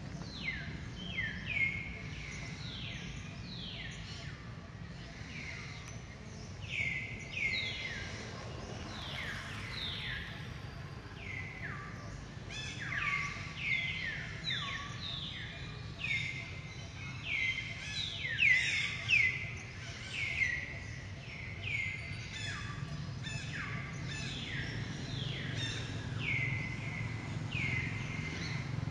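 Birds calling over and over, each call a quick note sliding downward, about one or two a second and sometimes overlapping, over a steady low background hum.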